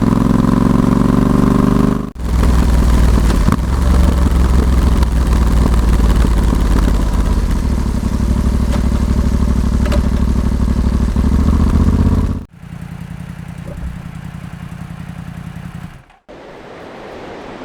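Yamaha XSR700's 689 cc parallel-twin engine running through an aftermarket SP Tadao Power Box Full RS full exhaust while riding, loud and steady for about ten seconds. It then runs much quieter for a few seconds, and near the end gives way to a faint even hiss.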